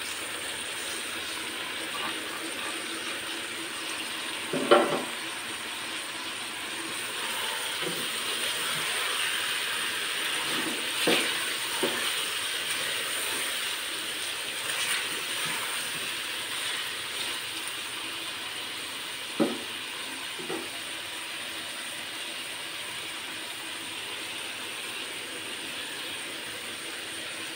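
Chicken pieces, chopped tomatoes and green chillies sizzling steadily in hot oil in a wok, with a few sharp knocks of a spatula against the pan as it is stirred.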